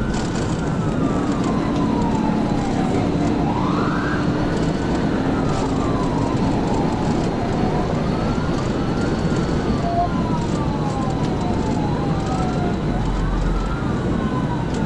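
Police siren in wail mode, a slow rise and fall repeating about every four to five seconds, over steady road noise from a cruiser in a pursuit.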